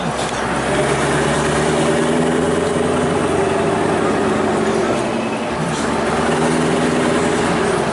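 Scania 144-530 V8 diesel truck engine running at a steady speed, with a slight change in its note about five seconds in.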